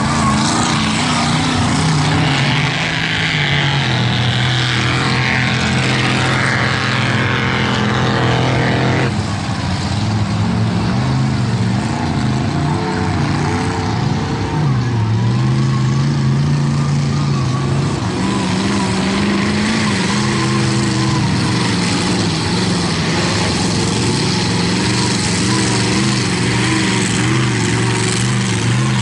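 Mega mud truck's big engine running under load and revving, its pitch rising and falling. The sound changes abruptly about nine seconds in.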